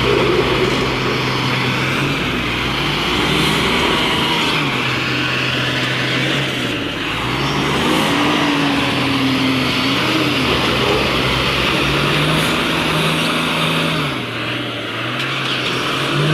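Truck engines running under load and revving up and down several times, as during a tow of a truck stuck in mud.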